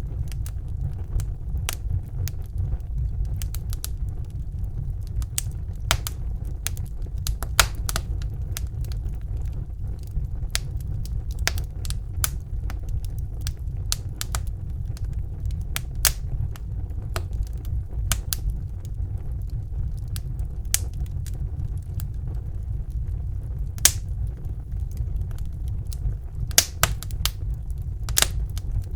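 Wood fire burning in a fireplace: a steady low rumble of the flames with sharp, irregular crackles and pops of the burning logs, a few louder snaps standing out.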